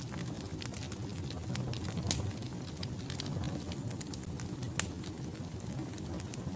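Wood fire crackling in a fireplace: a steady low rush of burning logs with irregular sharp pops and snaps, the strongest about two seconds in and near five seconds.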